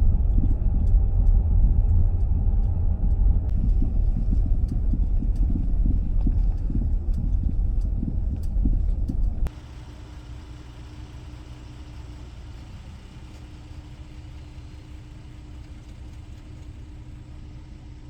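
Road noise inside a moving vehicle: a steady low rumble of tyres and engine. About halfway through it drops suddenly to a much quieter steady hum with a faint droning tone.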